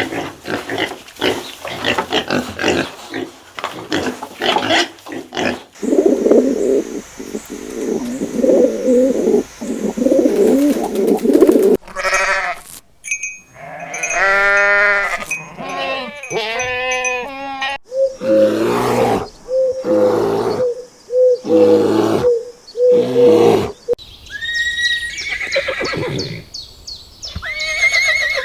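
A string of different farm animal calls in short clips, the sound changing abruptly about every six seconds.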